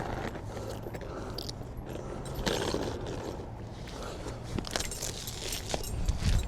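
Handling of pulled roofing nails and a shingle: light scraping with a few small metallic clicks, over a steady low hum.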